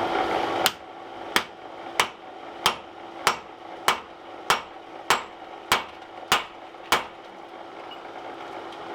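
Hand hammer striking steel tooling on a punch, eleven evenly spaced blows about every 0.6 seconds, stopping about seven seconds in. A steady hiss cuts out as the first blow lands.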